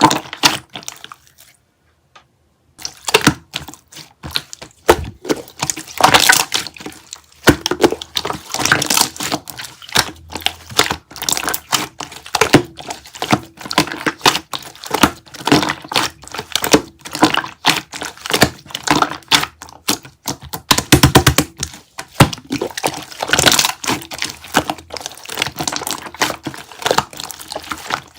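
A dense run of sharp clicks and taps close to the microphone, with a pause of about a second near the start.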